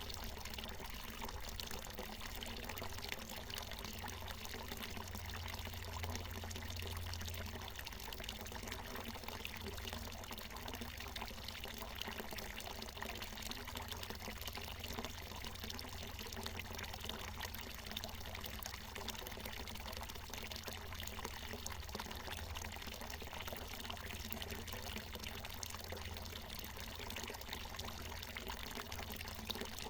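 Water from a natural mountain spring falling and splashing in a steady, unbroken stream.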